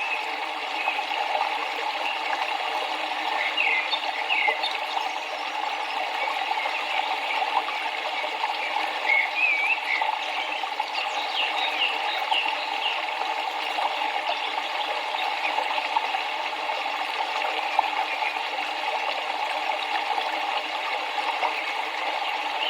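A river flowing steadily, with short bird chirps over it now and then, most of them between about nine and thirteen seconds in.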